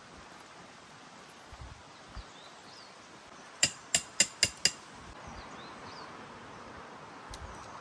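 Five quick strikes of a hammer on metal, about four a second, each with a short metallic ring.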